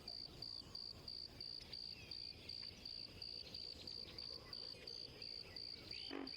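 Cricket chirping in a high, even rhythm, about three chirps a second, faint against light wetland background noise. A short, lower call cuts in just before the end.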